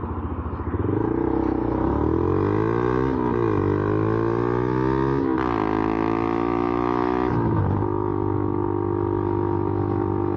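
Motorcycle engine accelerating through the gears. The pitch climbs from about a second in, drops back at each shift about three, five and seven and a half seconds in, then holds steady for the last couple of seconds.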